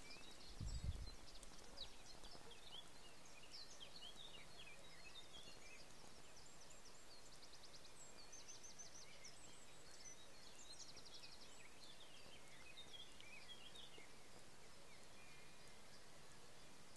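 Faint small birds chirping and calling, with several short rapid trills, over a steady background hiss; a low bump about a second in.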